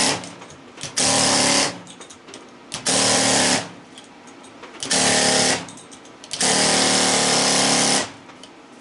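Pneumatic air chisel hammering in short bursts of about a second, five times, the last one longest, as it is driven into an electric motor's copper windings to cut them free for scrap.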